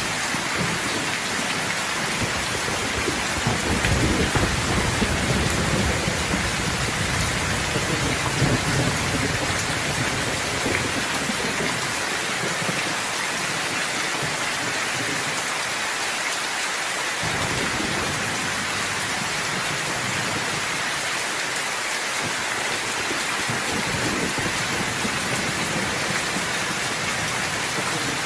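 Steady rain falling, with low rolling thunder rumbling through the first ten seconds or so, loudest about four and eight seconds in. The rumble dies away, then returns more faintly in the second half.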